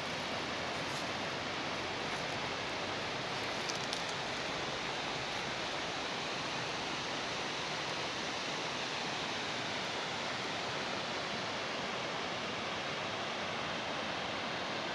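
Steady rushing of flowing water in a stream channel, an even hiss with no breaks.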